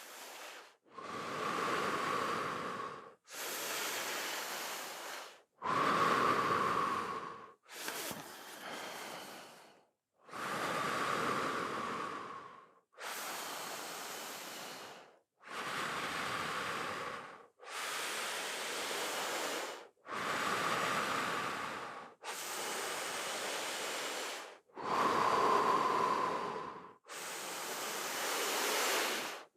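A person breathing deeply and audibly during full-to-empty breathwork, with long breaths in and out following one another steadily. Each breath lasts about two seconds, with about a dozen in all.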